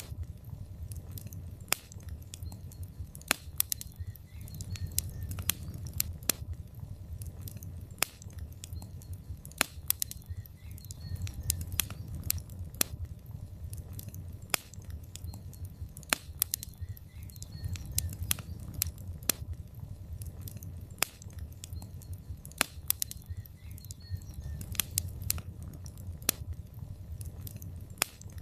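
Wood logs burning in a fireplace: a steady low rumble of the flames with irregular sharp crackles and pops, several a second, some much louder than the rest.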